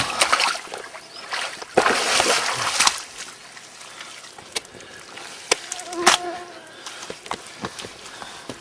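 Water splashing and sloshing as a muddy, root-filled tussock at the water's edge is dug through, loudest for about the first three seconds. After that it goes quieter, with scattered knocks and clicks.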